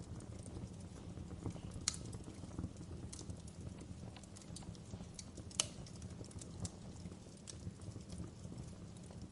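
Fireplace fire crackling: irregular sharp pops and snaps over a steady low rumble, with two louder pops about two seconds and five and a half seconds in.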